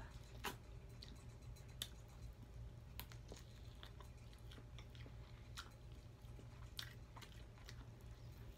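A person biting and chewing fried buffalo chicken wings, with scattered sharp clicks and crunches between quieter mouth sounds.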